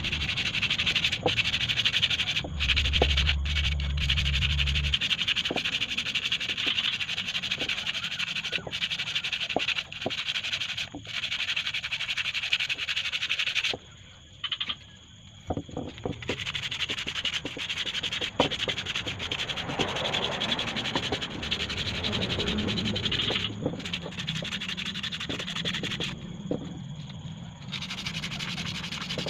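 Abrasive rubbing on the metal of a motorcycle hub as it is sanded and polished: a steady scraping hiss with scattered clicks, stopping briefly twice.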